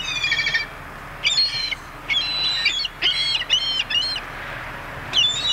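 Birds giving short, high-pitched squealing calls in quick runs, over and over, with a pause of about a second near the end.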